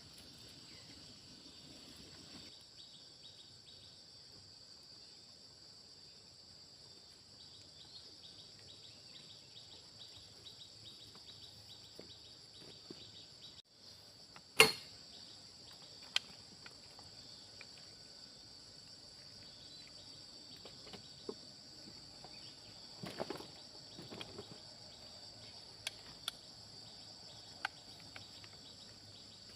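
Steady high-pitched chorus of insects, with one sharp knock about halfway through and a few fainter clicks and taps later on.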